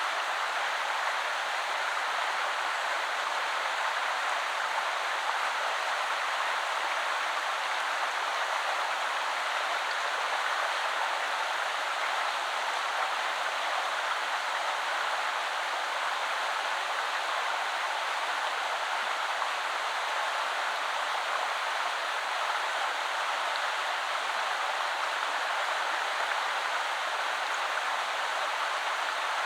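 Shallow woodland river flowing: a steady, even rush of water.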